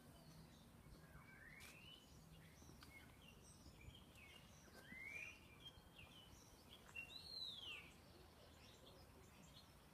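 Faint birdsong in still outdoor air: scattered short chirps and three clearer calls that sweep upward, about one, five and seven seconds in, the last rising and then falling.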